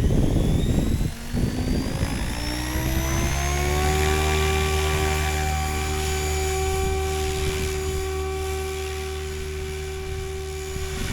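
RC helicopter's rotor and motor whine spooling up, rising in pitch over the first few seconds and then holding steady at head speed. Rough low rumbling bursts sound in the first second or so.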